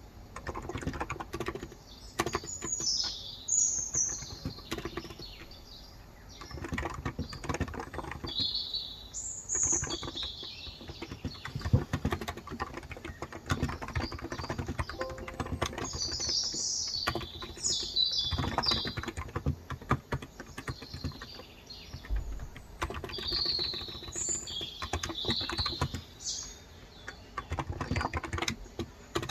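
Steady, irregular typing on a Cox Endeavour electrostatic-capacitive (35 g) tenkeyless keyboard, with birds chirping in short bursts of high calls behind it.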